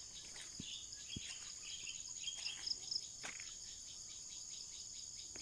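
Steady high insect drone, with short bird chirps scattered through it.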